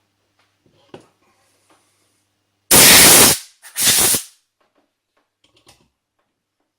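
Two short, loud hissing blasts of pressurised gas, a little under a second apart, during bench reassembly of a turbocharger. A faint knock comes about a second in.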